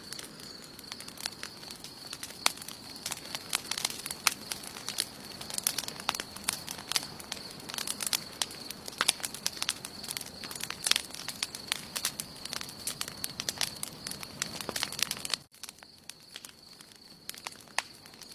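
Wood campfire crackling, with frequent sharp pops and snaps over a low hiss. About three-quarters of the way through the crackling drops off suddenly and turns sparse.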